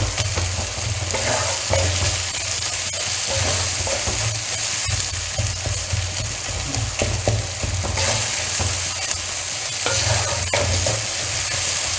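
Chopped onion, tomato, ginger and garlic frying in coconut oil in a kadai, sizzling steadily while a spoon stirs and scrapes the pan with many short strokes. The mixture is starting to catch on the bottom of the pan because of the ginger.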